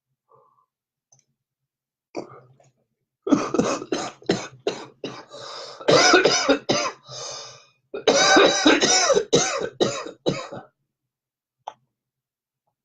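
A man coughing in a long fit of many closely spaced coughs, brought on by inhaling marijuana smoke. It starts about three seconds in and lasts about seven seconds, with a short lull partway through.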